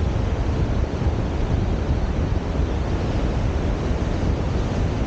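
Strong wind buffeting the microphone with a gusty low rumble, over the noise of surf breaking on the beach.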